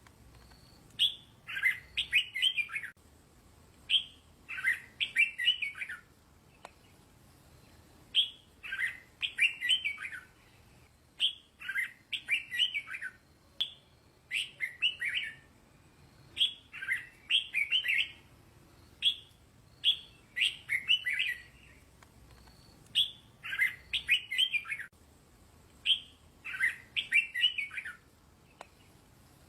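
Red-whiskered bulbul singing: short, bright phrases of a few quick notes, repeated every second or two with brief pauses between.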